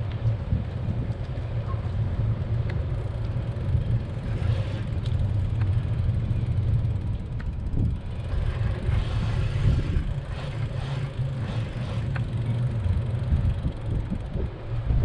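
Wind buffeting the microphone of a camera riding on a moving bicycle, a steady low rumble.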